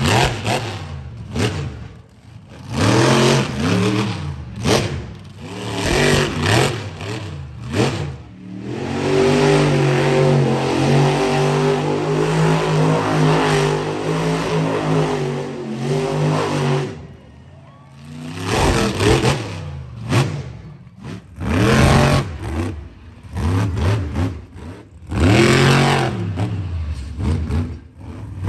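Monster truck engine revving hard in repeated swells, then held at a steady high pitch for about eight seconds from about eight seconds in, then revving in swells again.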